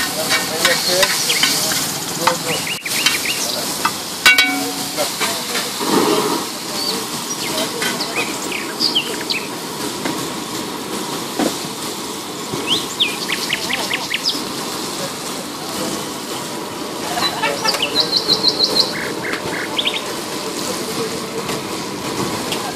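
Chopped tomatoes and onions sizzling steadily in oil on a large flat iron tawa, with a few sharp taps of the spatula. Birds chirp now and then, with a quick run of chirps about three-quarters of the way through.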